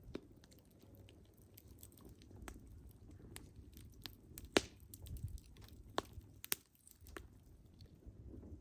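Burning firewood crackling, with irregular sharp pops and snaps over a low rumble of the flames; the loudest pop comes about halfway through.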